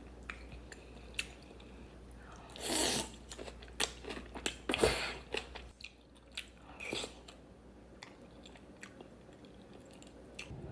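Close-miked eating of cheesy ramen: soft wet chewing clicks, with two louder mouth noises about three and five seconds in.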